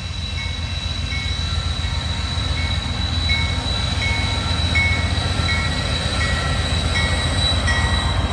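Diesel-led coal freight train approaching, its low rumble growing steadily louder. Over it, a grade crossing bell dings evenly, roughly once every 0.7 seconds.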